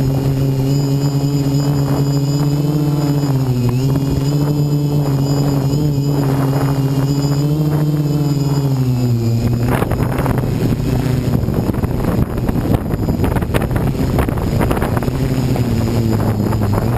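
DJI Flame Wheel 450 quadcopter's motors and propellers humming, heard from the onboard GoPro, their pitch rising and falling a little. About nine and a half seconds in the pitch drops and a rough rushing noise takes over, with the motor hum coming back near the end.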